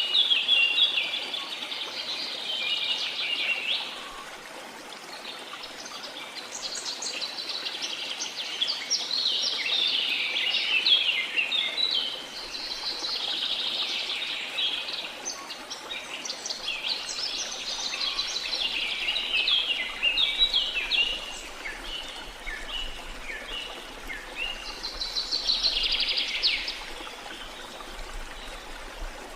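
Several birds singing almost without pause in fast chirping and trilling phrases, over a steady rushing of falling water.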